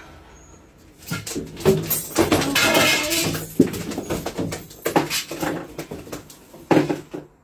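A gull calling in a series of harsh squawks, with a few sharp knocks among them.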